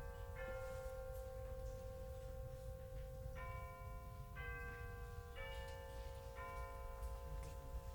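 Shop ambience: a steady low rumble under soft bell-like background music, sustained chords that change every second or so.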